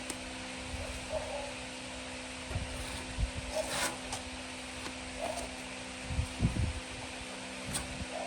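A steady mechanical hum, like a fan or small motor running, with scattered light knocks and a brief scrape about three and a half seconds in.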